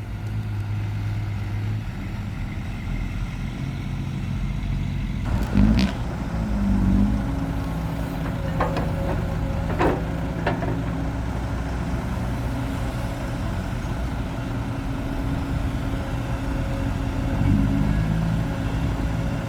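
Heavy diesel engine running steadily, with a few sharp knocks about a third of the way in.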